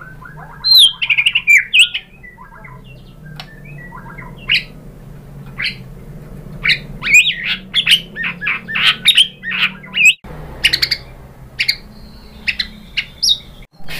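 White-rumped shama singing: a quick, varied run of loud whistled notes, sweeping slides and chattering, opening with a short rattle.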